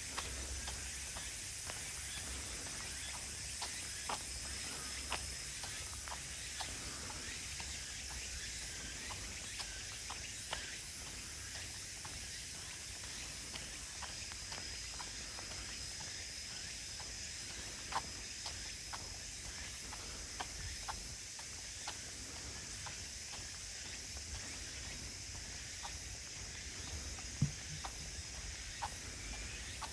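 A steady, high-pitched chorus of late-summer insects in woodland, with scattered sharp clicks of footsteps on the trail.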